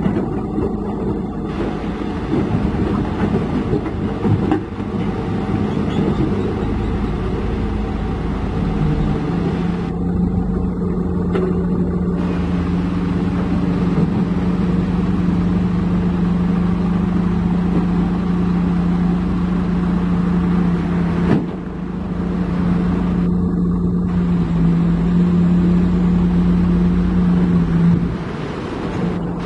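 Heavy diesel engine running steadily with a low, even hum, dipping briefly about 21 seconds in and again near the end.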